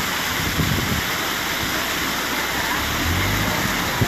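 Steady rushing of water at a canal lock, pouring through or past the lock gates. A low hum joins about three seconds in, and there is a single knock near the end.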